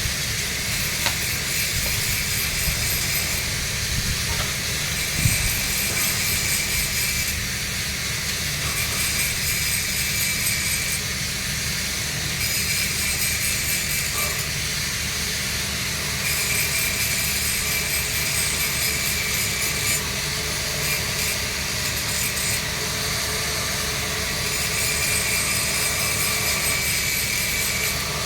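Electric arc welding on thick-walled steel pipe: a steady arc hiss over a low, even hum, likely the root pass going in.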